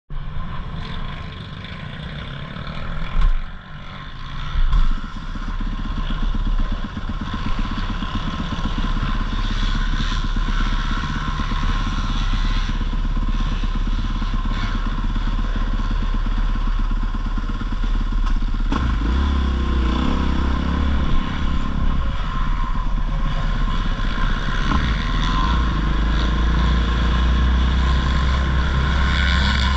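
Motocross dirt bike engine running, getting louder after the first few seconds, with two loud thumps about three and five seconds in.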